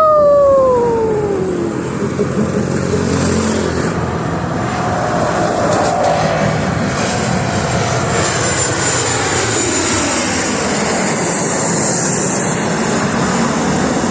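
Airplane flying low overhead, its engines making a loud steady rushing noise.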